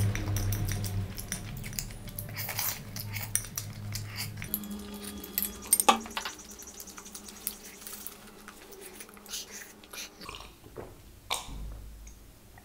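Chewing and mouth sounds of someone eating noodles with wooden chopsticks. A sharp clack comes about six seconds in as the chopsticks are set down on a glass bowl, and there are sips of milk near the end.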